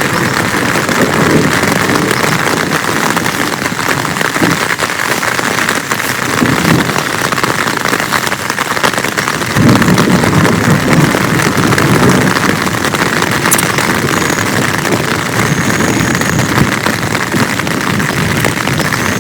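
Heavy rain pouring steadily, with a louder, deeper surge about ten seconds in.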